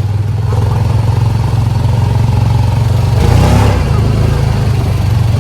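A motor vehicle's engine running steadily with a loud low hum, changing briefly about three seconds in.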